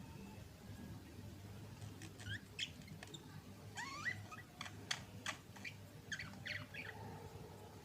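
Budgerigars chirping softly in short bursts of quick, sweeping chirps and clicks, with a denser run in the middle.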